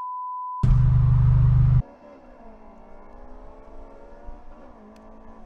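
A steady high beep, a censor bleep, for the first half-second. Then the Honda Civic EK4's B16A2 four-cylinder engine runs loud inside the cabin. About two seconds in it gives way to the same car heard from the roadside, much quieter, its engine note rising and falling as it accelerates and lifts.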